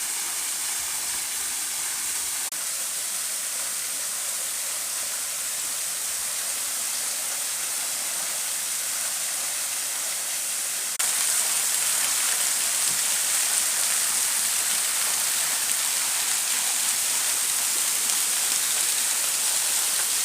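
Waterfall water rushing, a steady hiss that jumps abruptly louder about halfway through.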